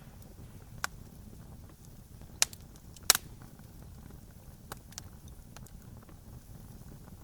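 Wood campfire crackling: a handful of sharp pops and snaps, the loudest about three seconds in, over a steady low rumble of the burning fire.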